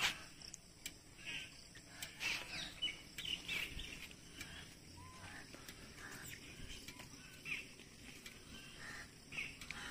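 Faint outdoor ambience with short, scattered bird chirps and a few light clicks, the loudest click right at the start.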